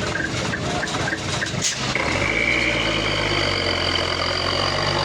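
Heavy truck engine pulling under throttle, with a sharp knock about a second and a half in, then a steady engine drone topped by a steady high-pitched whine from about two seconds in.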